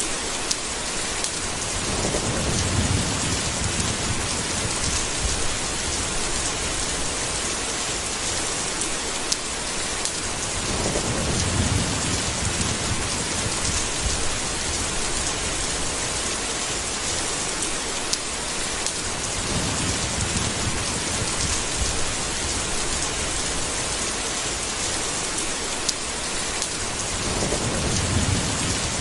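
Steady rain falling, with a low rumble of thunder rolling in four times, about every eight to nine seconds.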